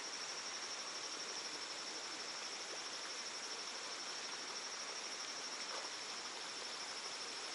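Insects chirring outdoors in a steady, high, unbroken trill over a constant background hiss.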